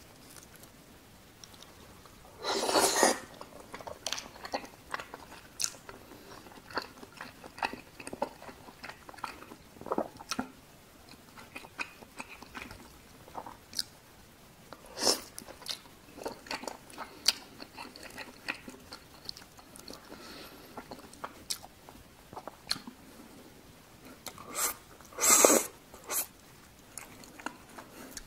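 Close-miked chewing and mouth sounds of someone eating cheese-covered tteokbokki (chewy rice cakes in sauce): wet smacks and clicks throughout, with a louder noisy burst about three seconds in and another near the end.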